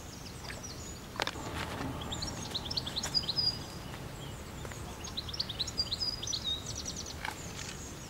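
A songbird singing two quick runs of high chirps and trills over a low steady outdoor background noise, with a single sharp click about a second in.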